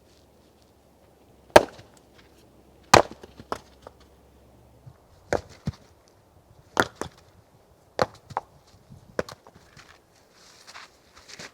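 Firewood being chopped: about ten sharp, separate blows at an uneven pace, the heaviest two in the first few seconds, with the wood splintering.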